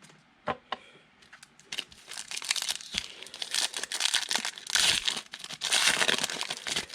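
A foil trading-card pack wrapper crinkling and tearing as it is opened by hand. It starts with a couple of light clicks and turns to continuous crinkling from about two seconds in.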